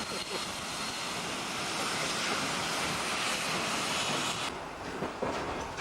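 Train running on the rails with a steady rushing noise. About four and a half seconds in, the sound changes abruptly and a string of sharp clicks follows.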